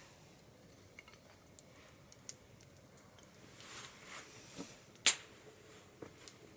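Small wood fire burning in a wood stove, fuelled with disposable chopsticks and scrap wood: scattered crackles and ticks, a brief rustling swell around four seconds in, and one loud sharp pop about five seconds in.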